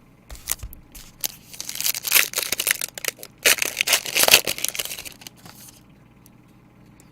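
A trading-card pack wrapper being torn open and crinkled, in a run of irregular rustling tears lasting about five seconds.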